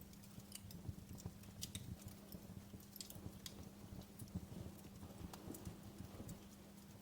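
Fireplace fire crackling: irregular sharp pops and snaps over a soft low rumble of the flames.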